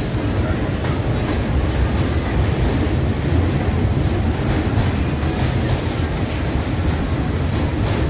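Subway train running on the track, a steady low rumble of wheels and cars throughout.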